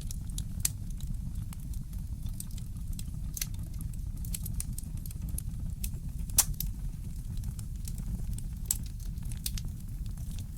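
Wood fire crackling in a fireplace: irregular sharp pops and snaps over a steady low rumble, with one louder pop a little past the middle.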